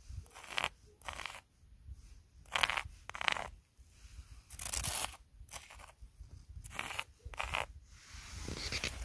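Footsteps crunching in snow, a step roughly every second.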